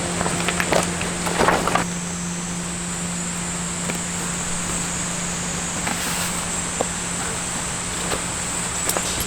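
Steady, high-pitched insect buzzing in a midsummer forest, with a low steady hum beneath it. Rustling and a few knocks in the first two seconds, then a few faint clicks.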